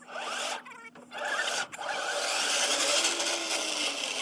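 Vintage Zetor three-cylinder tractor running in gear, heard as a dense rasping mechanical noise with wavering squeaks. It drops away briefly about a second in.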